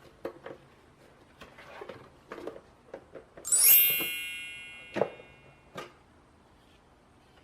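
Soft handling taps and knocks, then about three and a half seconds in a single bright ringing chime with many high tones that fades away over a second or so; a sharper knock follows about five seconds in.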